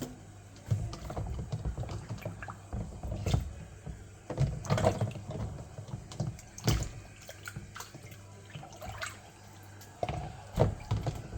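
Water splashing and sloshing in irregular bursts, with a few sharp knocks, as a Lego boat is pushed about and swamped in water.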